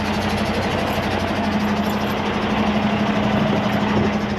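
Semi-truck's diesel engine idling, a steady hum.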